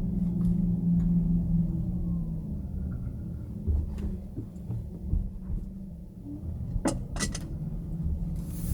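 Low steady rumble of a moving car, with a hum that fades out after about two seconds and a few sharp clicks about seven seconds in.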